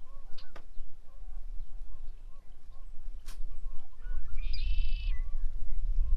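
Birds calling: a run of short chirping calls repeated several times a second, with a longer, higher call about two-thirds of the way in. Two sharp clicks and a low rumble of wind or handling noise sit under the calls toward the end.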